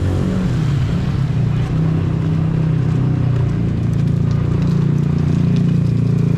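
A motor vehicle's engine running steadily close by, a loud low hum that swells slightly in the second half.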